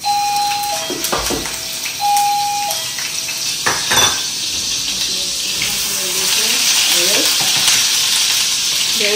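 Ginger-garlic paste sizzling loudly as it is dropped into hot oil in a kadhai, starting suddenly and running steadily, with a few knocks on the pan and stirring.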